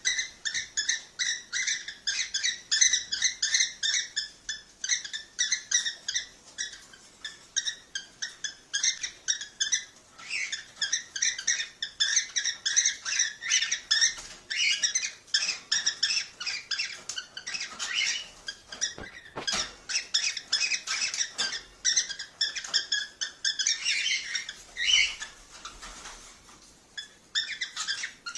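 A group of cockatiels chirping and calling in rapid, continuous high-pitched chatter, several calls a second, with a short lull about 26 seconds in.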